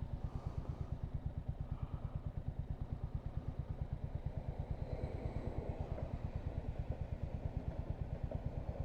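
Single-cylinder engine of a Royal Enfield Hunter 350 motorcycle running at a steady low engine speed, an even low pulse of about eight beats a second.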